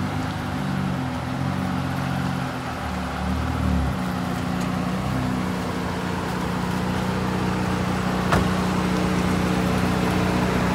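Vehicle engine idling, its low running sound shifting in the first few seconds and then holding steady; a single sharp click about eight seconds in.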